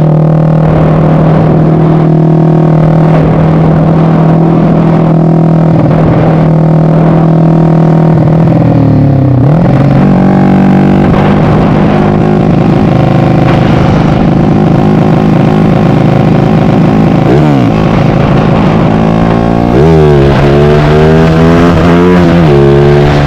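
Yamaha MX King motorcycle's single-cylinder four-stroke engine, bored out to 300cc, running hard. It holds a steady high pitch for about eight seconds, then drops, climbs again and is blipped up and down several times near the end.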